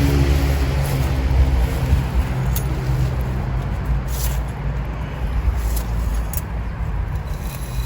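Vehicle engine running with a steady low hum, strongest for the first few seconds and then easing off, with a few faint clicks over it.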